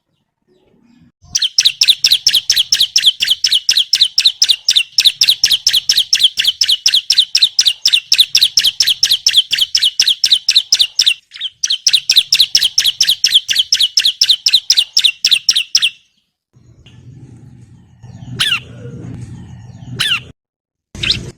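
Bar-winged prinia (ciblek) singing a long, rapid run of high chirps, about five a second, with a brief break partway through. It stops about three-quarters of the way in, and a few separate single calls follow over a fainter low rumble.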